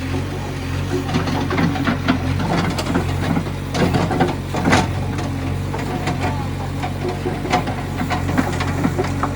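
Heavy diesel engine running steadily, with scattered sharp knocks and clatters over it, the loudest about four to five seconds in.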